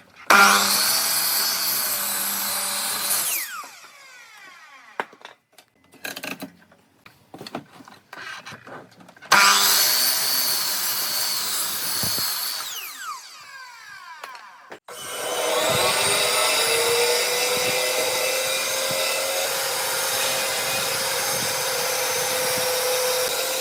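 Electric woodworking power tool run three times. It starts abruptly and runs about three seconds, then winds down in a falling whine, and does the same again about nine seconds in. Around fifteen seconds in it spins up with a rising whine and keeps running. Light knocks of handled wood fall between the runs.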